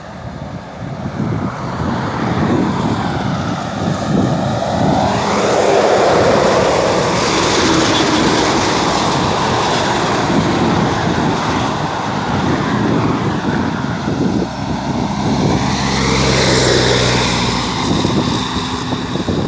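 Heavy trucks passing at speed on a highway: loud, steady engine and tyre noise that swells as one passes about five seconds in and another near the end.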